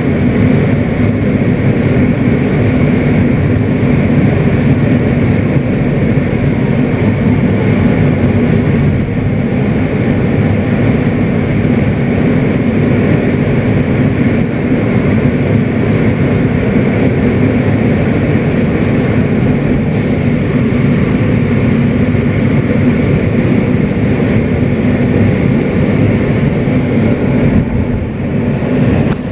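Kawasaki R160B subway car with Siemens propulsion running along the track, heard from inside the car: a loud, steady rumble of wheels on rails, with a faint steady whine above it.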